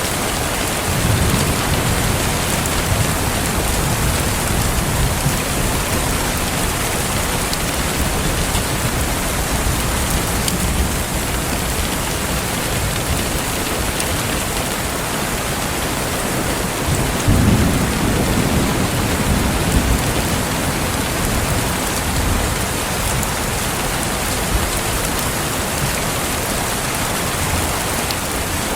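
Steady rain falling, with faint crackling from a fireplace. Low rumbles swell up about a second in and again about two-thirds of the way through.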